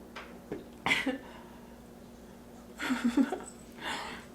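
A person making three short, breathy bursts of sound, about one, three and four seconds in.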